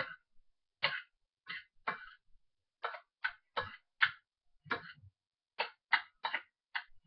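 Diced salad being mixed with mayonnaise in a bowl: a run of short stirring strokes, roughly two a second, unevenly spaced.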